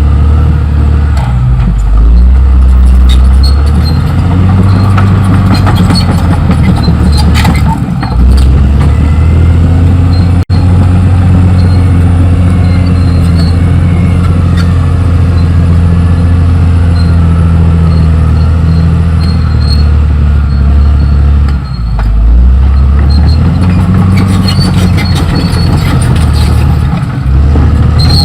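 Caterpillar D6R XL bulldozer's diesel engine running loud and steady under load. Its pitch sags and recovers a few times, about two, eight and twenty-two seconds in. The sound drops out for an instant about ten seconds in.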